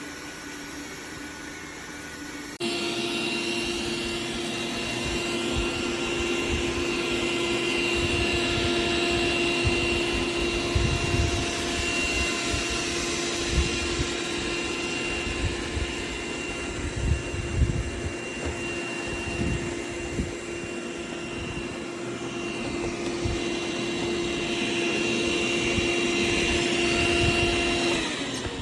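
Dreame L10s Ultra's vacuum suction motor switching on abruptly and running with a steady whine over a rush of air. Near the end its pitch falls as it winds down and stops.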